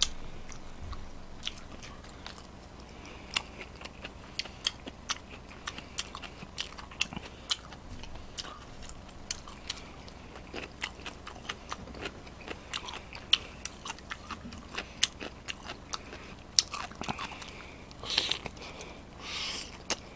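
Close-miked chewing and biting of food, with many short, sharp, wet mouth clicks and smacks. Near the end come two brief, louder, hissy sounds.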